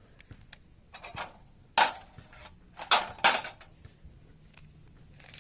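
Metal camp cookware clanking: a light knock, then three loud sharp clanks with a short ring, between about one and three and a half seconds in.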